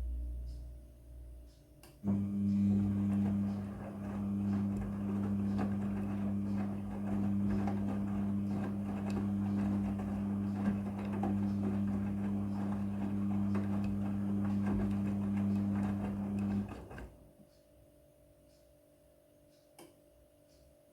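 Midea front-loading washing machine: a low rumble fades out, then about two seconds in a pump or valve starts with a steady hum and rushing water. It cuts off suddenly a few seconds before the end.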